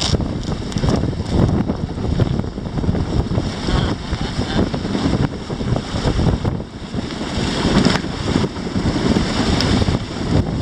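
Strong wind buffeting the microphone, gusting up and down, over water rushing past the hulls of a Grabner Hurricane inflatable catamaran sailing fast in a 17-22 knot breeze.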